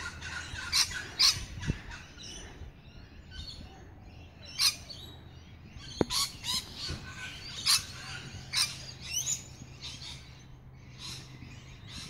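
Wild birds calling: short, sharp, high chirps and squawks, roughly one a second, sometimes two close together. A single sharp click about halfway through.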